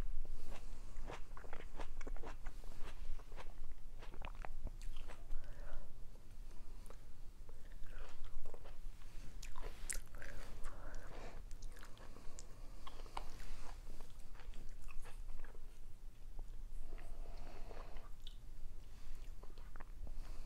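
Close-miked chewing and biting of soft food, with many irregular wet mouth clicks and smacks.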